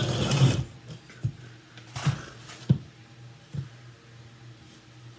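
Handling noise of a phone camera being propped up: a rustling scrape in the first second, then a handful of light knocks and bumps over a low steady hum.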